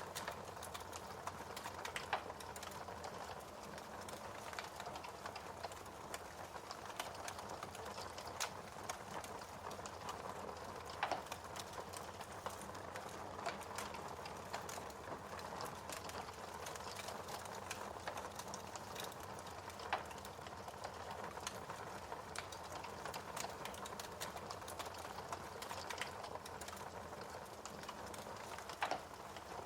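Wood fire burning in a fireplace: a steady soft hiss with dense irregular crackling and a few louder pops.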